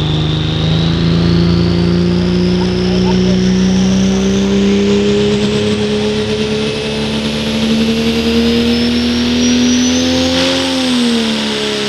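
Turbo diesel pickup truck engine pulling hard under load, its note slowly climbing with a high turbo whistle rising above it; about ten seconds in the pitch drops as the throttle comes off.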